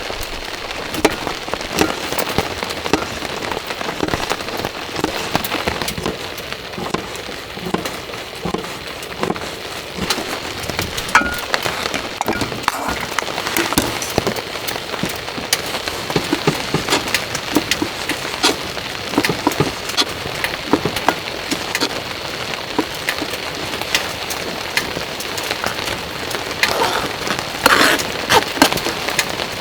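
Heavy rain falling, a steady hiss with many sharp drops striking surfaces close by. There is a short run of louder drop strikes near the end.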